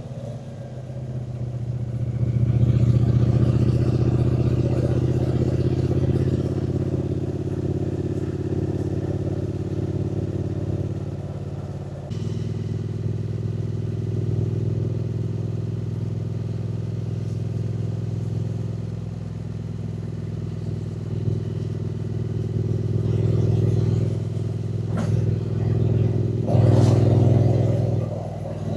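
Triumph Speed Twin 900's 900 cc parallel-twin engine running under way on the road, the engine note rising a few seconds in and changing abruptly about twelve seconds in. It pulls harder again near the end, with a couple of sharp clicks.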